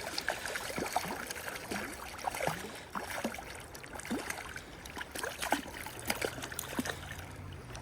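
Creek water trickling and gurgling, with many small splashes and drips.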